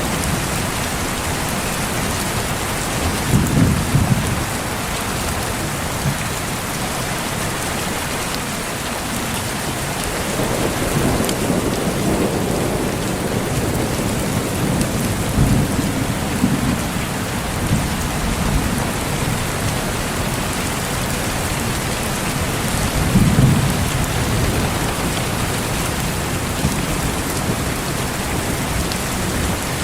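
Steady heavy rain with rolls of thunder: low rumbles swell up about four times, around 3, 11, 16 and 23 seconds in.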